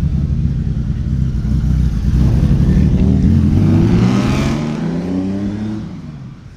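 Honda Gold Wing motorcycle engine running and accelerating away, its pitch rising between about two and five seconds in, then fading as the bike pulls off.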